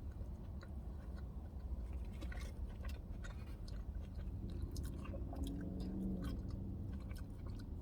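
Close-up chewing of a crispy fried chicken sandwich: wet, sticky mouth sounds with many small smacks and clicks, the sauce-soaked bun and breading being worked in the mouth.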